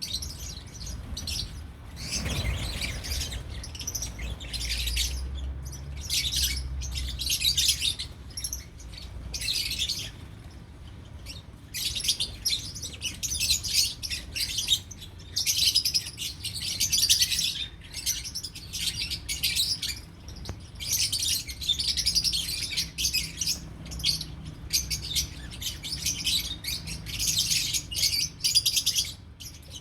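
Lovebirds chattering: rapid, high-pitched chirps in repeated bursts, with a brief low bump about two seconds in.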